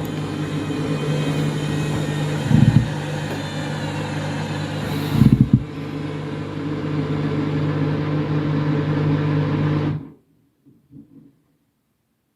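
Washing machine running its first intermediate spin with a heavily overloaded, over-sudsed drum: a steady motor hum with two dull thuds. The sound stops suddenly about ten seconds in.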